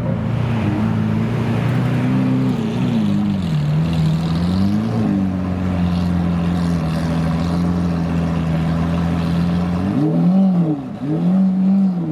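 Car engine running at a steady idle, its throttle blipped in a slow rise and fall about four seconds in, then revved twice in quick succession near the end.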